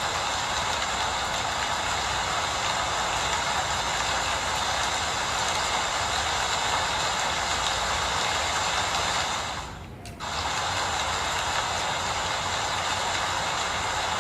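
Steady rain falling, an even hiss that dips away briefly just before ten seconds in and comes straight back.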